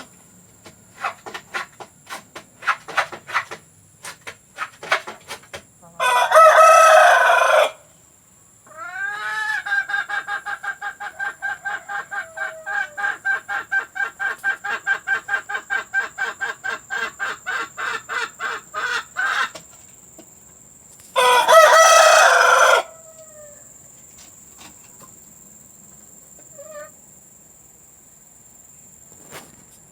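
Domestic chickens calling. A hen clucks in short notes, then a rooster crows loudly twice, about 6 seconds and about 21 seconds in. Between the two crows there is a long cackle of rapid, evenly repeated notes, about four a second for some ten seconds, like a hen's laying cackle.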